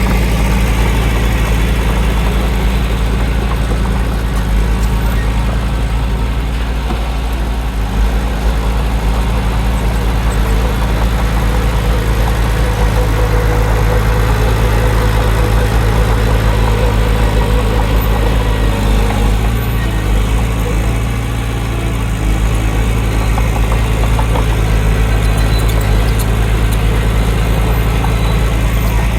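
Heavy diesel engine of earthmoving machinery running steadily with a low drone, easing slightly for a moment about two-thirds of the way through.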